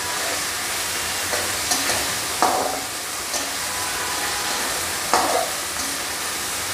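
Chicken pieces sizzling in hot oil in a metal karahi while being stir-fried with a spatula. The spatula scrapes and knocks against the pan a few times.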